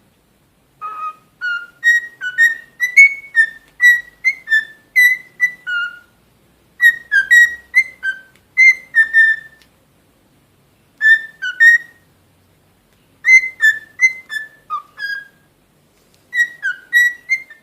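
Cockatiel whistling a tune: phrases of short, clear whistled notes, several to a second, broken by pauses of a second or two.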